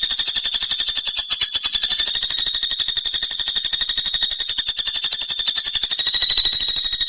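Pelatuk bawang (common flameback woodpecker) giving its rapid-fire rattling call: a long, unbroken, very fast trill of high notes, steady throughout.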